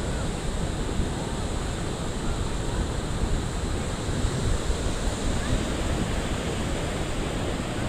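Ocean surf washing onto a beach, a steady rush of waves, with wind rumbling on the microphone.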